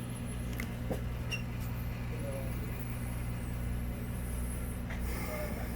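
Steady low mechanical hum, even throughout, with a few faint clicks.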